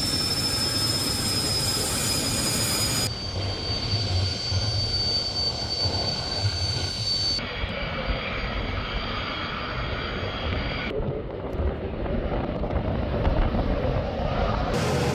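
Fighter jet engine noise: a steady rush and rumble with a thin high whine. The sound changes abruptly several times as different clips are spliced together.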